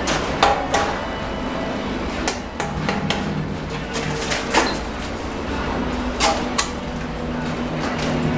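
Sharp knocks of a bricklayer's tools striking cement bricks: about eight separate hits at irregular spacing, several in quick pairs, over a steady low hum.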